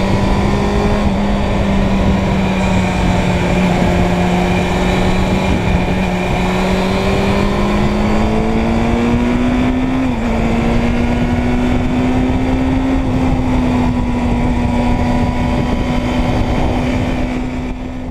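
Suzuki Bandit 600's inline-four engine running under way with a steady, high-pitched note that climbs slowly for about ten seconds, dips briefly, then holds steady, over a constant rush of wind noise. It fades out at the very end.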